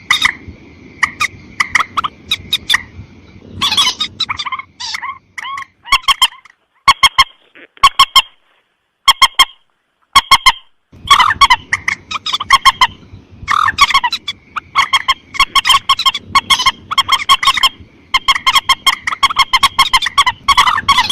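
Mandar sawah (a rice-field rail) calling in fast, loud series of short, sharp repeated notes, played as a bird-lure recording. The calling thins to a few scattered notes with gaps around the middle, then resumes as a dense rapid series.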